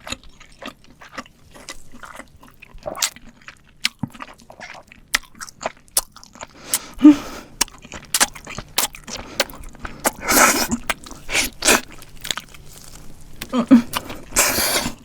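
Close-miked eating of crispy fried chicken: many sharp crunches and chewing, with the loudest, longest crunches about ten and fourteen seconds in.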